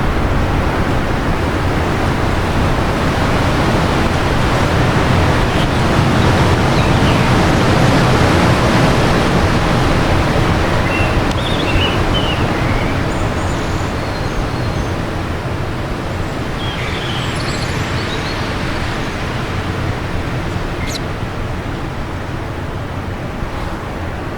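Wind blowing in a long rushing gust that swells for the first third and then slowly eases. A few faint bird chirps come through it in the middle and near the end.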